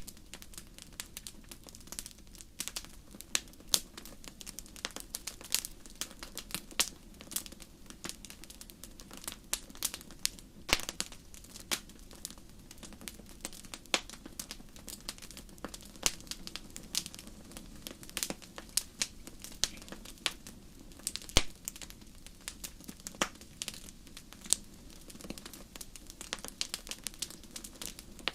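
Wood fire burning in a fireplace, crackling with many sharp irregular pops and snaps over a steady low hiss.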